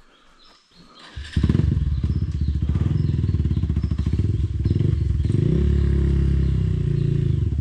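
Off-road motorcycle engine, quiet at first, then throttled up about a second in and running hard under load as the bike climbs over rocks.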